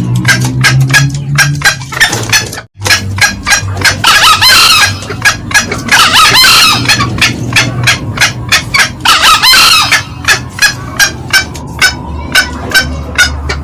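Green junglefowl calling: a fast, even series of short cackling notes, about three a second, with a cock crowing three times, about four, six and nine seconds in. Loud, as in a lure recording.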